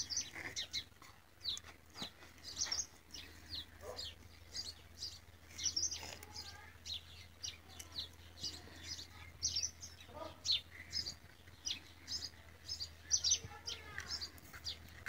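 Small birds chirping, a steady run of short, high chirps a few times a second, over a faint low hum.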